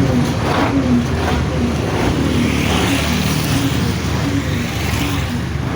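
Heavy vehicle engine running steadily, with road noise.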